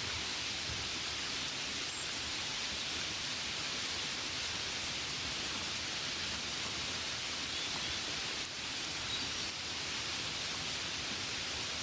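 Gentle rain falling steadily, an even hiss without distinct drops or pauses.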